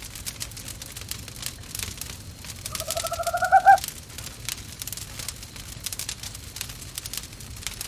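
Wood fire crackling steadily in a fireplace, with one quavering owl call about three seconds in, lasting about a second and rising slightly in pitch.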